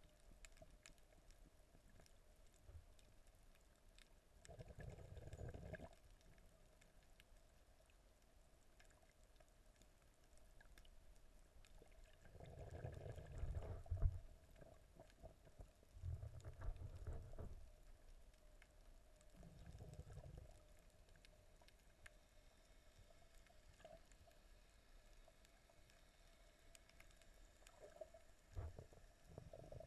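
Muffled underwater sound of water moving and sloshing around a snorkeller's camera. A few low rumbling surges come and go, with faint scattered clicks between them.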